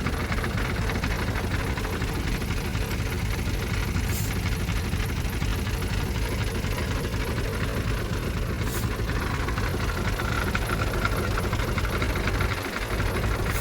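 Heavy diesel engine of earthmoving machinery running steadily, with a brief dip in level near the end.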